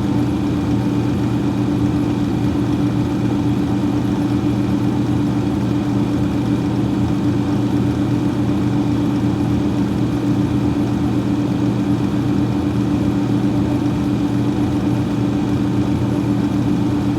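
Freezer fan running: a steady whir over a low hum.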